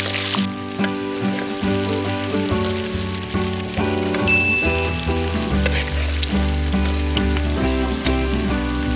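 Tofu cubes frying in hot oil in a steel wok, sizzling steadily. Background music with a melody plays over the sizzle.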